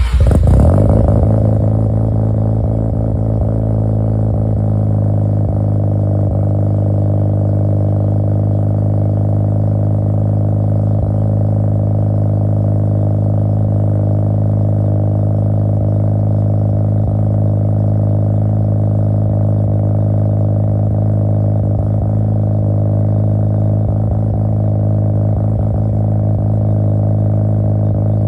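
Mazda RX-7 FD's 13B-REW rotary engine just after start-up: a brief flare in revs that falls away over about two seconds, then a steady idle.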